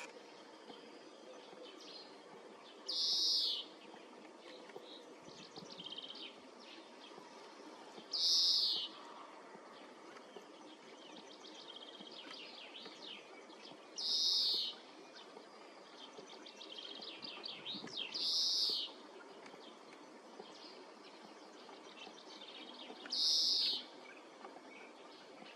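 A bird gives a short, high-pitched call five times, about every five seconds. Fainter chirps and trills come between the calls.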